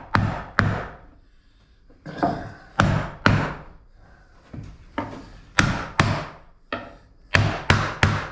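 Repeated sharp knocks on wood, about a dozen irregularly spaced strikes, as parts of a cedar beehive are tapped into place so they seat evenly and tight.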